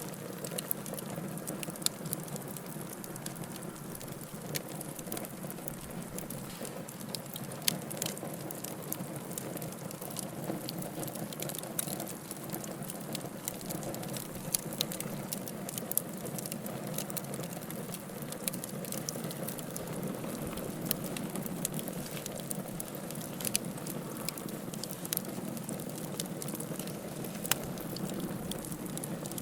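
Logs burning in a fireplace: a steady low rush of flame with frequent sharp crackles and pops scattered throughout.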